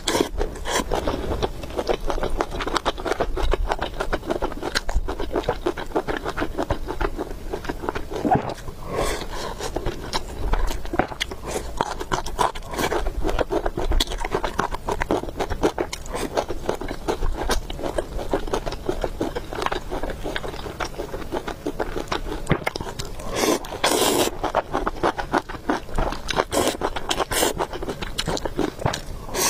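Close-miked eating sounds: a person chewing food, with many small wet clicks and smacks running on without a break.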